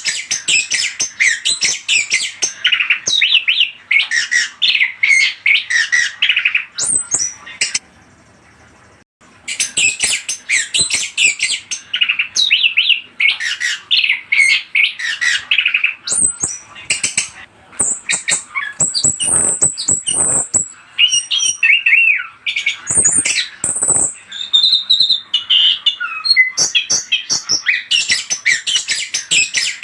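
Songbird, the chestnut-capped thrush (anis kembang), singing a fast, dense run of chattering notes with a brief pause about eight seconds in, then mixing in clear high whistles.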